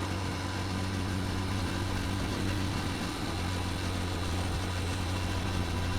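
Steady engine hum with a strong low drone, running evenly without change.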